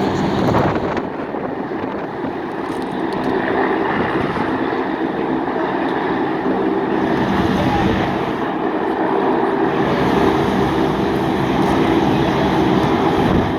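Steady engine drone with an even hum, over a background wash of noise.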